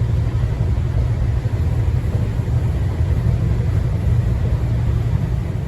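Train running on the rails: a steady, loud low rumble that eases off near the end.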